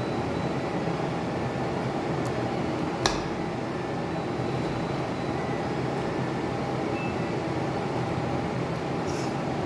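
Steady machine hum, like a fan or air conditioner, with one sharp click about three seconds in.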